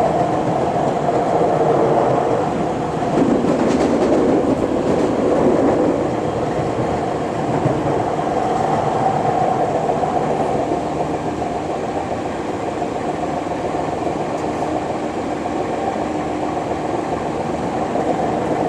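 Tokyu 8500-series electric commuter train running along the line, heard from inside a passenger car: a steady rumble of the running gear with a pitched hum in it. It is a little louder for the first few seconds, then eases slightly and holds steady.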